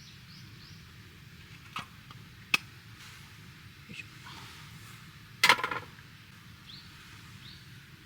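A few sharp clicks and a brief clattering burst about five and a half seconds in, against a quiet outdoor background with a few faint high chirps.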